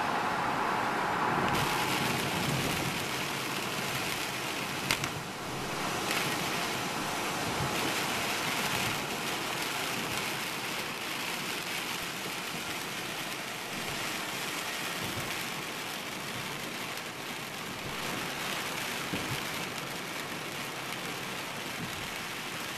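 Heavy rain and wet-road tyre hiss heard from inside a moving car. The hiss grows brighter about a second and a half in, as the car leaves a tunnel into the downpour, and there is one sharp click about five seconds in.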